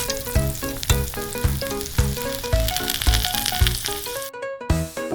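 Chicken pieces frying in a small pan, with a steady sizzle over background music that has a regular beat. The sizzling cuts off suddenly near the end, leaving only the music.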